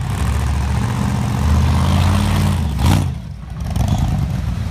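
A car engine revving as the car drives off. There is one sharp crack about three seconds in, then the engine note drops briefly and picks up again.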